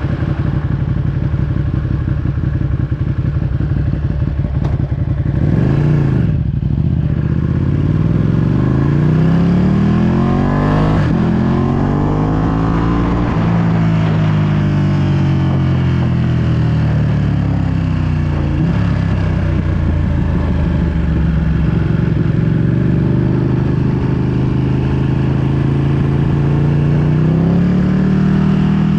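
2020 Ducati Panigale V2's 955 cc Superquadro twin through a full Akrapovic exhaust, running steadily, blipped once about five seconds in, then rising in pitch as it accelerates, easing off, and climbing again near the end. Wind noise on the microphone underneath.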